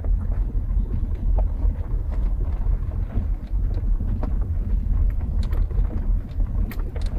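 Car rolling slowly along a rough track, heard from inside the cabin with the back windows open: a steady low rumble from the tyres and engine, with scattered small knocks and ticks.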